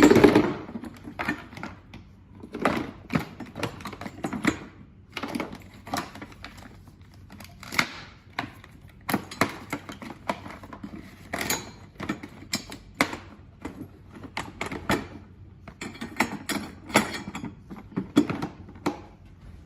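Hand tools and small metal parts clicking, clinking and knocking in irregular bursts, as in hands-on repair work on a motor.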